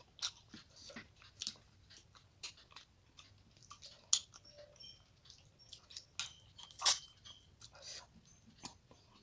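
A person eating rice and fish-head curry by hand, close up: chewing and wet mouth noises with irregular sharp clicks, loudest about four seconds in and again near seven seconds.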